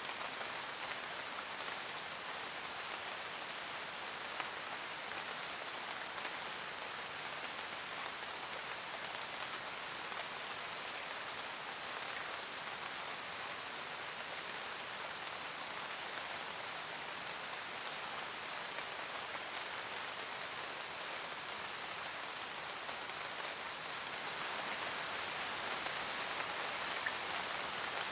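Steady rain falling on a forest, an even hiss of many raindrops with faint individual drop ticks; it grows a little louder about 24 seconds in.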